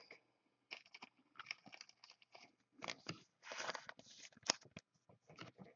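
Football trading cards being handled during a pack break: faint, irregular rustles and clicks as cards are slid and shuffled.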